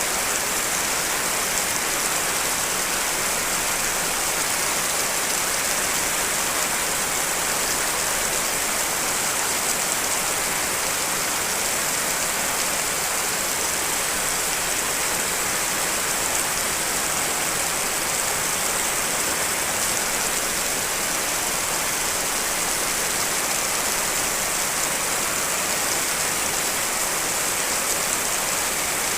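Steady rain: a dense, even hiss from a mix of layered rain recordings, with no single drops, thunder or changes standing out.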